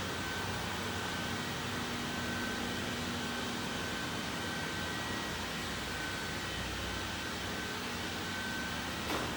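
Robot vacuum cleaner running: a steady whir of its suction fan and brushes with faint whining tones, and one brief click near the end.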